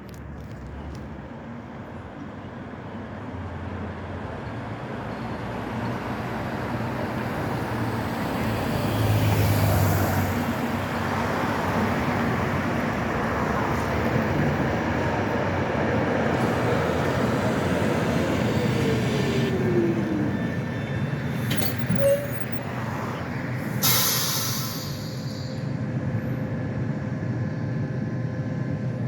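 Tram running along street track. Its running noise builds over the first ten seconds, a whine falls in pitch in the middle, and two sharp knocks come about two-thirds of the way in.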